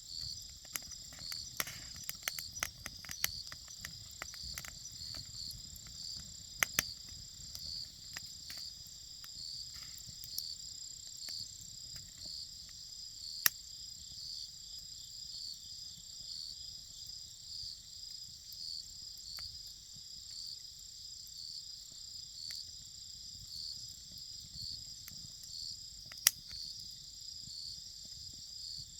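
Crickets trilling steadily with a regular pulse, over a wood fire crackling with scattered sharp pops; a few pops stand out loudest.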